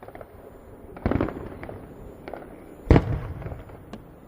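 Aerial fireworks bursting: a booming shell about a second in, a smaller one past two seconds and the loudest bang near three seconds, with short crackles between.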